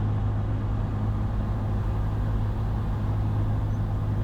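Cessna 172's piston engine and propeller droning steadily in the cabin, throttled back to low power for the descent on approach.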